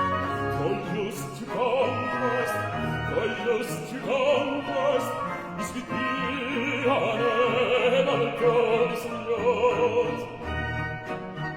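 Bass soloist singing a Baroque aria with vibrato, accompanied by a period orchestra of strings and continuo.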